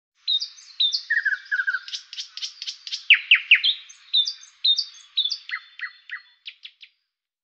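Birdsong: a lively run of short chirps and tweets mixed with quick downward-sweeping whistles, stopping about half a second before the end.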